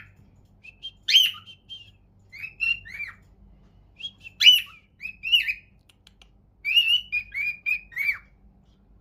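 Cockatiel chirping and calling in four short bursts of quick rising and falling notes, with brief pauses between them; the sharpest call comes about four and a half seconds in.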